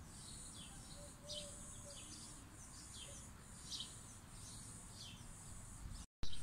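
Birds chirping: short falling chirps, about one a second, over a steady high-pitched hiss. Near the end the sound drops out briefly, then there is a short knock.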